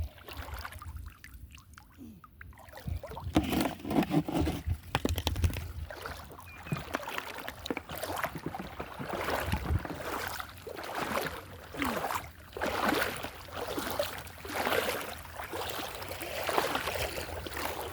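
Water sloshing and splashing around a small boat, in irregular bursts that start about three seconds in.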